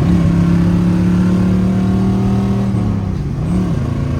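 1968 Camaro's 327 small-block V8 pulling under acceleration. The revs climb at the start and hold high for nearly three seconds, then fall, rise briefly once more and settle lower. The engine is running smoothly on all eight cylinders after a dead cylinder was cured.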